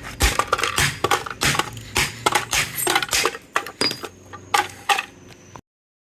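Quick clattering and clinking of small hard objects, knock after knock two or three times a second, some with a short metallic or glassy ring. It cuts off abruptly near the end.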